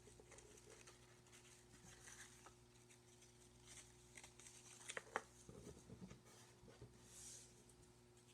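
Near silence with faint paper-craft handling: a glue stick rubbed on construction paper and paper pieces being handled, with a couple of light taps about five seconds in, over a steady low hum.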